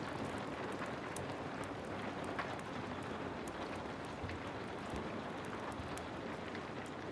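Heavy rain falling steadily, with scattered sharp crackles and pops from a wood fire.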